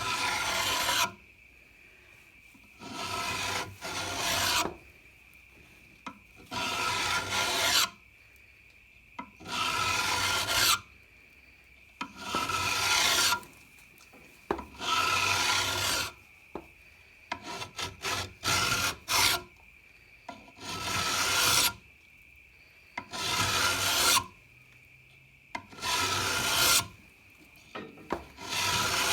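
A hand file rasping across the steel leading edge of a reel mower's bed knife under light pressure, sharpening it. It goes in separate strokes of about a second each with short pauses between them, and a quick run of short strokes about two-thirds of the way through.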